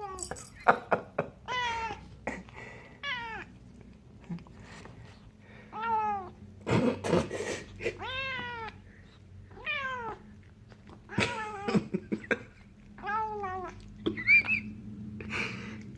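Burmilla kitten making about a dozen short, arching meow-like calls roughly a second apart, the hungry sounds it makes while eating a fly it has just caught. A few short noisy bursts come between the calls.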